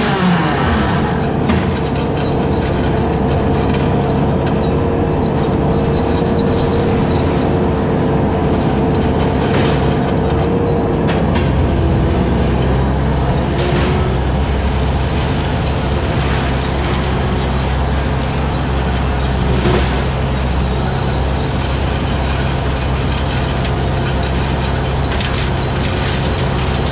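Skid steer's engine running steadily under load while driving a 72-inch hydraulic brush cutter through long grass and brush. A steady whine drops lower about eleven seconds in, and a few sharp hits sound now and then.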